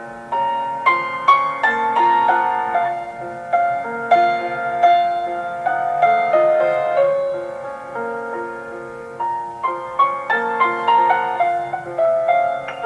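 Solo piano music: a gentle, tender melody with sustained chords beneath it.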